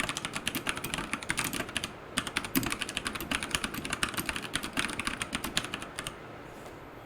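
Fast typing on a Royal Kludge RK100 mechanical keyboard with brown tactile switches and AKKO clear keycaps: a quick run of key clacks. The typing pauses briefly about two seconds in and stops about six seconds in.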